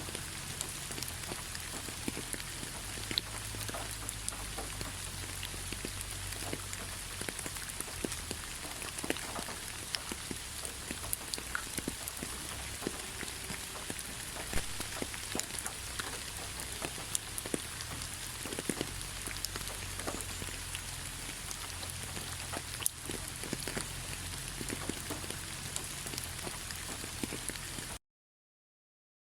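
Steady rain falling, with many separate drops ticking on a surface. It cuts off suddenly near the end.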